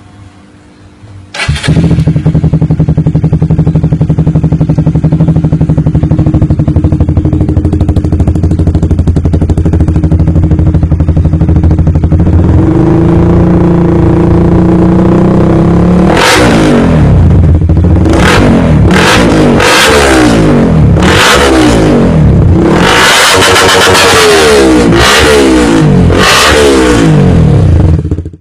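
Honda CBR sport motorcycle with an X-Speed full-stainless racing exhaust, starting about a second in and idling loudly. The idle rises, and through the second half the throttle is blipped over and over in short, sharp revs.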